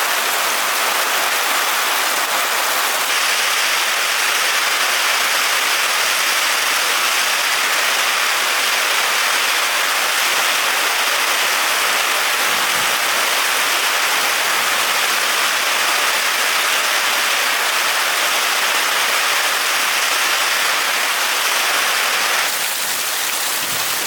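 Steady rain: a dense, even hiss with no pauses. It shifts slightly in level and tone about three seconds in and again near the end.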